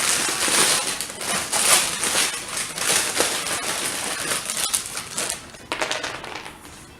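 Crinkling, rustling packaging with many small clicks as a package of dry cereal is handled; it stops about five seconds in, followed by a few sharper clicks.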